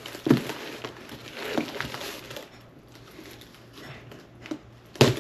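A package being opened by hand: packaging crinkling and rustling, with a sharp knock just after the start and a louder one near the end.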